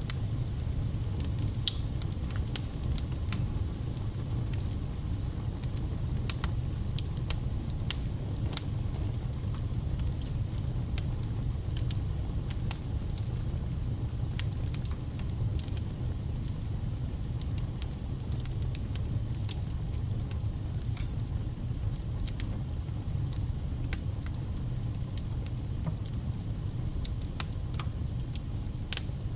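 Burning firewood crackling, with irregular sharp pops and snaps over a steady low rumble of the flames.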